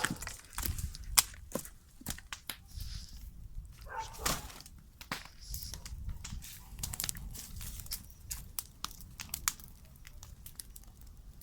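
Paper and cardboard rubbish crinkling and crackling, with many sharp irregular snaps over a low rumble.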